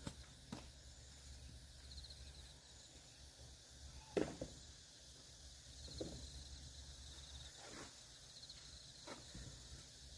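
Quiet outdoor ambience with faint insects chirping in short rapid trills and a low steady hum, broken by a few soft clicks and one sharper knock about four seconds in.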